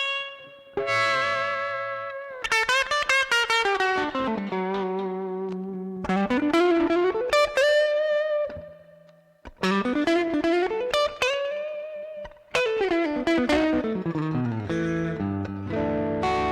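Telecaster electric guitar played through a Way Huge Conspiracy Theory overdrive pedal into an Eleven Rack amp modeller, lightly overdriven. It plays lead phrases of quick picked runs and held notes, with notes gliding up and down in pitch, and the sound briefly dies away near the start and again about halfway through.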